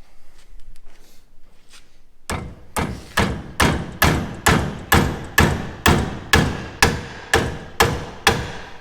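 Steady hammering on metal parts of a combine corn head: about fifteen blows, roughly two a second, each with a short metallic ring, beginning about two seconds in.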